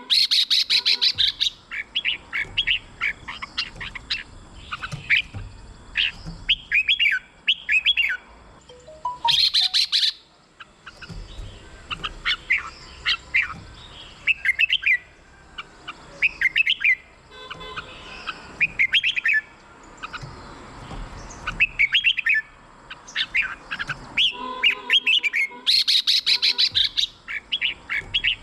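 Red-whiskered bulbul singing: short, quick whistled phrases repeated over and over, broken by bursts of fast, sharp chattering notes at the start, near the middle and near the end.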